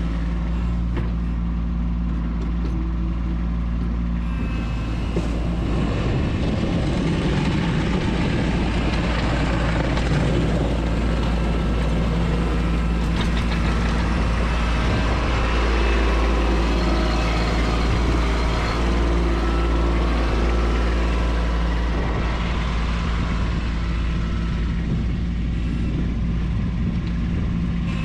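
Kubota B2601 compact tractor's three-cylinder diesel engine running steadily, with a rougher, noisier stretch from about five seconds in until near the end.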